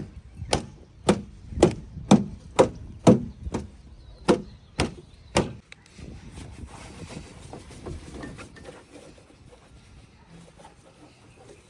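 A series of sharp striking blows, about two a second, about ten in all, stopping about five and a half seconds in. Fainter scattered knocks and noise follow.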